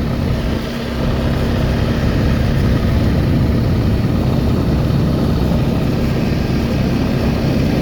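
Quad bike engine running steadily while being ridden, dipping briefly just under a second in and then picking up again.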